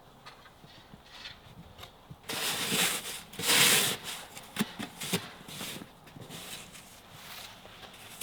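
Snow shovel scraping and scooping snow on a driveway: two loud scrapes about two to four seconds in, with lighter crunches and scuffs around them.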